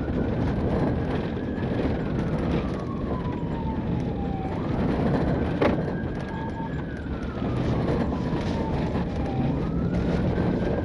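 Police siren wailing in slow cycles: it climbs quickly, holds, then slides slowly down before climbing again, about two full cycles, over the steady noise of a vehicle driving. There is one sharp click about halfway through.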